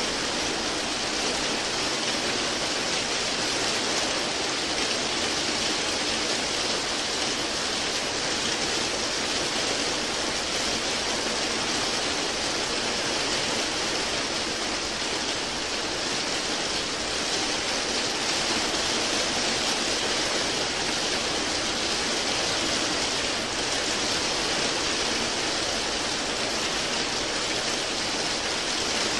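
Steady rain, an even, unbroken hiss of falling water with no single drops standing out.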